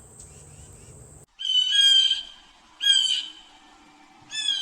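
A faint high insect trill stops abruptly, then a bird gives three loud, harsh calls about a second and a half apart.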